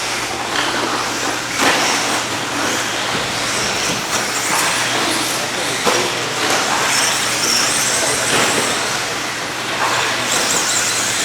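Radio-controlled 2wd trucks racing on a track, their motors whining up and down in pitch as they accelerate and brake, with a few sharp knocks along the way.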